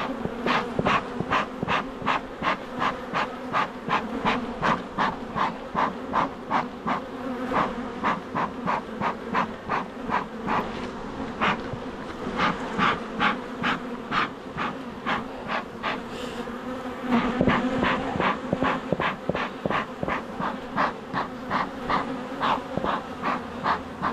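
Honeybees buzzing in a loud, steady swarm hum around an opened hive, agitated and defensive. A rapid, even pulsing of short hissy sounds, about two or three a second, runs through it.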